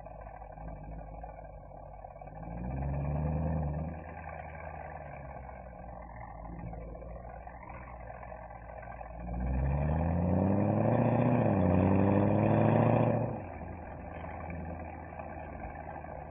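Mercedes-AMG SL63's V8 exhaust on the move, a steady low drone with a short rise in revs about three seconds in. Near the middle it accelerates hard for about four seconds, the pitch climbing, falling briefly and climbing again, then drops off suddenly as the throttle is released.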